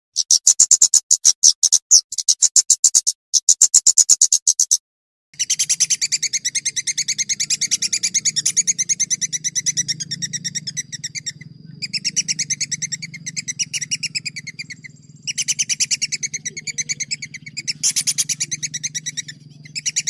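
Recorded songbird song played as masteran for training contest birds: fast strings of sharp, high repeated notes, broken by abrupt cut-outs. After a short silence about five seconds in, the trilling resumes slightly lower, over a steady low hum.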